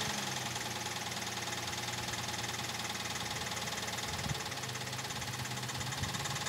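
Ford Police Interceptor Utility engine idling steadily with a knock it never had before, after water got into the intake during a creek crossing.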